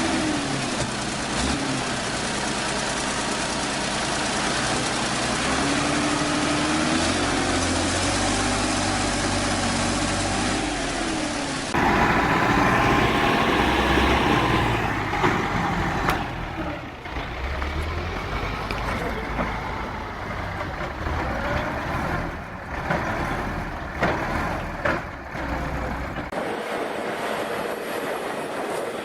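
Heavy tractor engines running and revving, their pitch rising and falling. The sound changes abruptly about twelve seconds in and again near the end.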